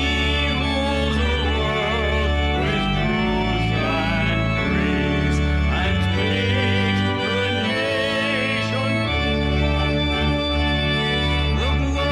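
Organ music: sustained chords over a deep bass line whose notes change every second or two, as the closing music of a church service.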